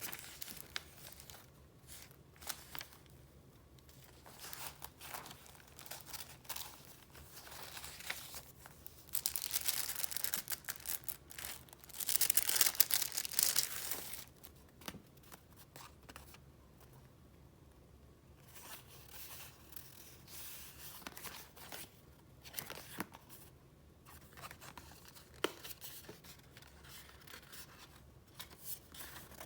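Paper being handled close up: sheets and pages of a paper-goods file rustling and crinkling as they are flipped through and moved, with many small taps and clicks. Two louder, longer stretches of rustling come about nine and twelve seconds in.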